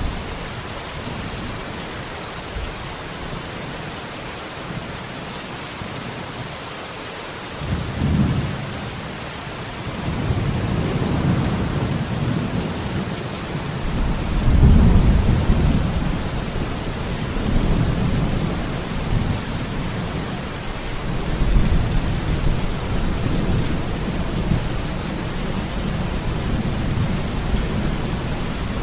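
Steady heavy rain falling, with thunder rumbling in low rolls from about a third of the way in, loudest around the middle.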